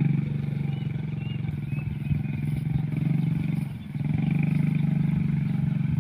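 Motorcycle engine running steadily, easing off briefly about two-thirds of the way through and then pulling again.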